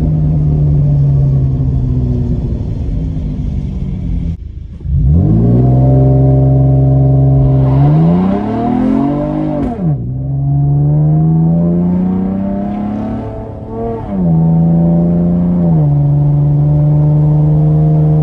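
Chevrolet Camaro's engine heard from inside the cabin while driving. It dips out briefly about a quarter of the way in, then climbs in pitch under acceleration. The pitch falls sharply at an upshift about halfway through, climbs again, steps down at another shift, then holds steady.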